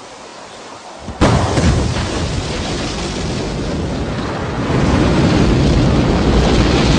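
Rocket launch sound: after a soft hiss, a sudden blast of ignition about a second in, then a continuous rocket engine rumble that grows louder and deeper near the end.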